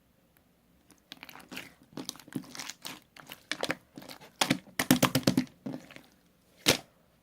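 Crinkling and crumpling handling noise: irregular crackles for about five seconds, then one sharp crack near the end.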